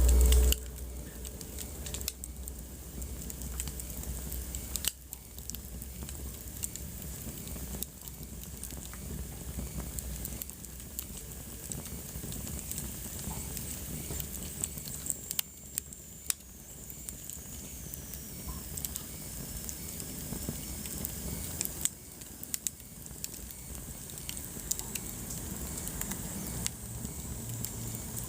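Wood fire crackling in a fireplace: frequent sharp pops and snaps over a soft steady hiss. It opens with a brief low rumble that cuts off, and about halfway through a faint high whistle slides slowly down in pitch.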